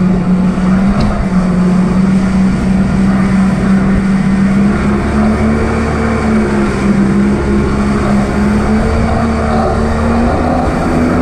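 Jet ski engine running at a steady speed over a wide rushing hiss of water and wind, its pitch stepping up slightly near the end.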